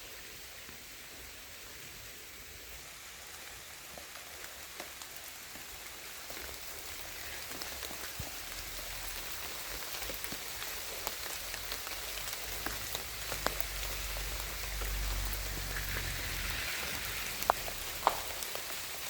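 Steady rain falling in a forest, with individual drops ticking close by; it grows gradually louder and the drop ticks come more often, with two sharper ones near the end. A low rumble joins about halfway through.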